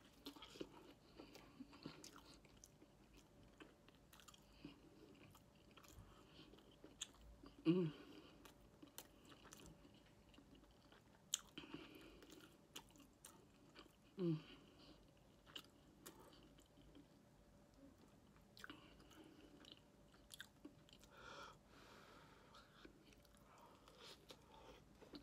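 Faint close-up chewing and biting of a sauce-soaked fried chicken sandwich, with small wet clicks of the mouth throughout. Two brief hums are heard, about eight and fourteen seconds in.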